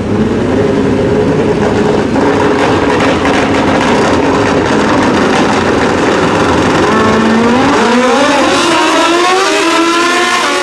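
Drag-racing motorcycle engines running loud. Their pitch holds fairly steady, then climbs over the last few seconds as the bikes accelerate.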